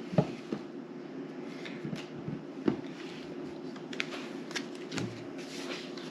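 Playing cards being handled and laid down on a table: scattered light taps and slides, over a steady low hum.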